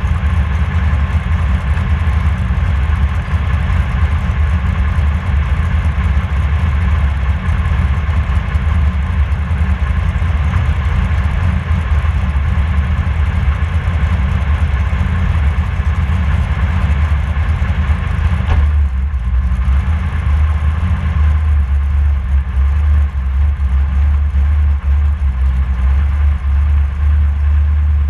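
Drag race car's engine idling with a loud, steady low rumble. About two-thirds of the way through, the higher part of the sound drops away, leaving mainly the low rumble.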